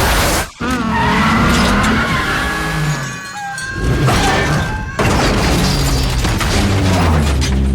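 Action-film car chase sound mix: car engines and skidding tyres with crashing and shattering glass, under film score music.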